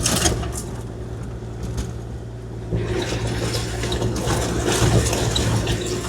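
Kubota KX040-4 mini excavator's diesel engine running steadily under its hydraulics. From about three seconds in, a rushing, pouring noise joins it as rock spills from the bucket onto the wet driveway.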